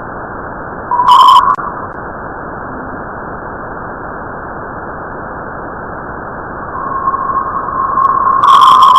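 Space sound recording converted to audio: a steady hiss, with a short, loud tone about a second in and a steady high tone that swells in from about seven seconds and is loudest near the end.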